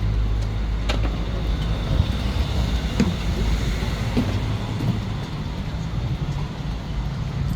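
Road traffic: a steady low rumble of passing vehicles, with a few brief clicks.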